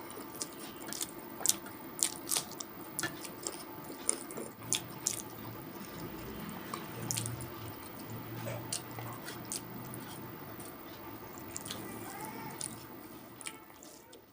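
Close-miked eating: wet chewing and sharp mouth clicks and smacks, many in the first half and thinning out later, fading near the end.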